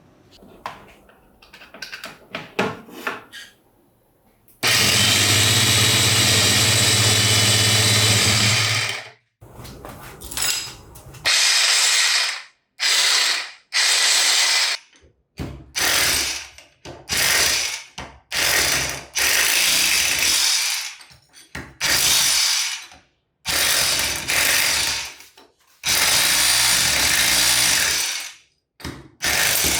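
Restored Hitachi PR-50 rotary hammer drill being test-run. After a few light handling clicks it runs steadily for about four seconds with a low motor hum, then in many short trigger bursts of about a second each.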